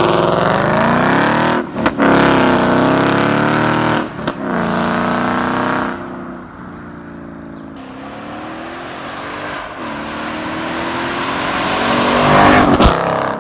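2017 Ford Mustang GT's 5.0 V8 through a valved ARMYTRIX cat-back exhaust, heard from inside the car under hard acceleration. The engine note rises in pitch, dips briefly with upshifts about two and four seconds in, then eases off to a quieter cruise around six seconds in and slowly builds louder again.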